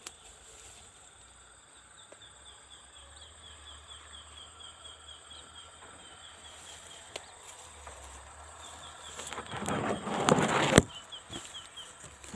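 Quick series of short, high, slightly falling bird chirps, several a second, in two or three runs. Near the end comes a loud rustle that ends in a sharp knock.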